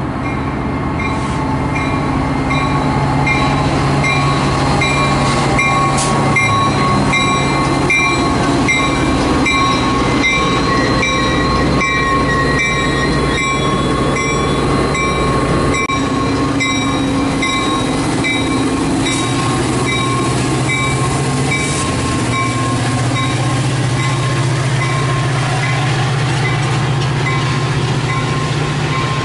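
Metra commuter train arriving at the station. The diesel locomotive's engine runs with a low steady rumble that grows louder in the last several seconds. Over it is a steady high whine and a regular ringing beat about every two-thirds of a second, like a locomotive bell, which fades out past the middle.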